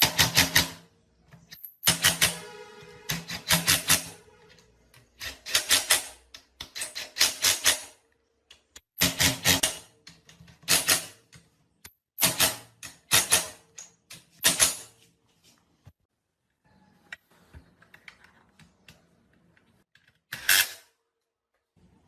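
Hand tools knocking and clicking on metal parts in repeated quick clusters of several strikes, one clattering group ringing briefly about two seconds in, then a pause and one last cluster near the end.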